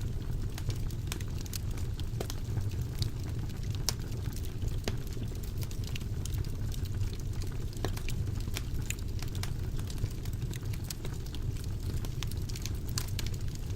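Wood fire burning in a fireplace: a steady low rumble of flame with many scattered sharp crackles and pops.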